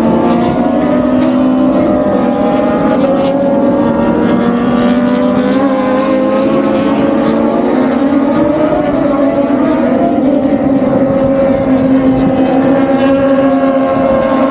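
Steady engine drone with several pitches slowly drifting up and down.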